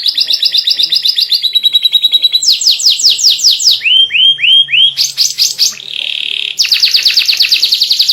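White canary singing a fast, unbroken song: runs of rapidly repeated notes that switch to a new note type every second or so. The runs include rows of downward-sweeping notes, a few rising whistled notes, and a brief buzzy rattle about six seconds in.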